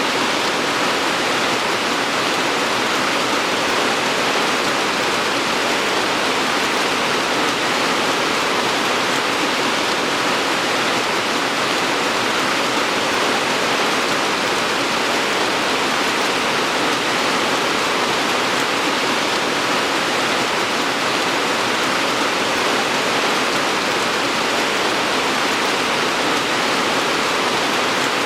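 Steady, even rainfall, a dense hiss of rain with no single drops or thunder standing out.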